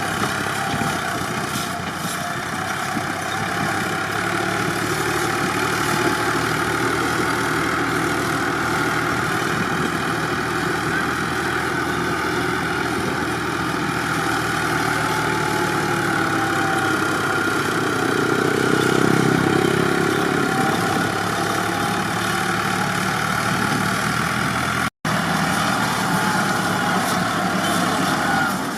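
Tractor engine running steadily under load, rising in a brief surge of revs about two-thirds of the way through.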